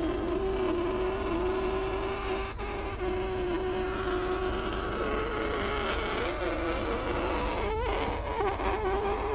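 Electric hair clippers buzzing steadily, the pitch wavering slightly.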